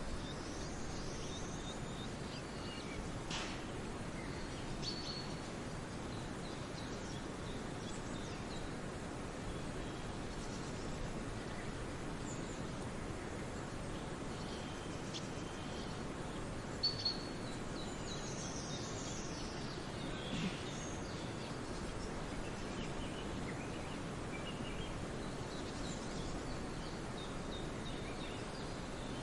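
Forest birds singing over a steady background hiss: scattered short high chirps and gliding, falling whistles every few seconds. A couple of sharp, loud notes come about seventeen seconds in.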